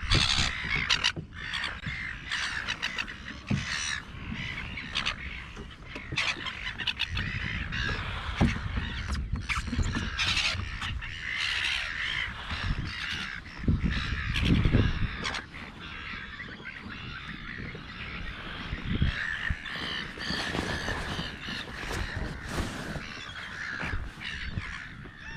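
A flock of seagulls calling frantically, many harsh overlapping calls, as they mob a bird on the water. Low thumps and rumble come in under the calls, heaviest around the middle.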